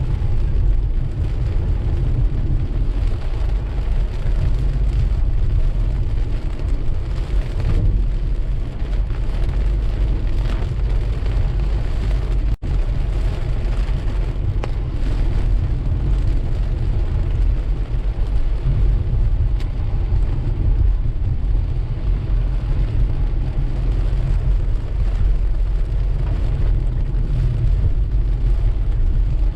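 A car driving through steady rain: a steady low road and tyre rumble with a hiss of rain and wet spray on the car. The sound cuts out very briefly about twelve seconds in.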